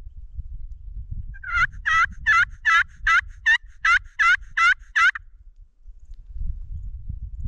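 Hand-operated turkey call run loudly as a locator call: a series of about ten yelps, about two and a half a second, that stops about two-thirds of the way through. The calling is meant to make a gobbler strike up and answer.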